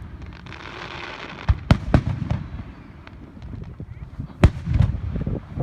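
Fireworks display: sharp bangs of aerial shells bursting, a quick cluster of three about a second and a half to two seconds in and a loud single bang about four and a half seconds in, with low rumbling between and a brief hissing crackle near the start.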